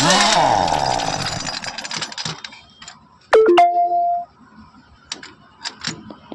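A power tool working on truck wheel nuts: it fades away over the first couple of seconds, then gives a sudden steady-pitched burst of about a second, followed by a few sharp metallic clicks.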